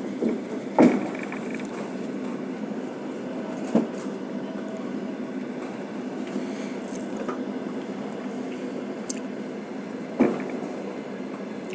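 Steady rumble of a moving passenger train carriage heard from inside, with a few sharp knocks from the wheels on the track: the loudest about a second in, others near 4 s and near 10 s.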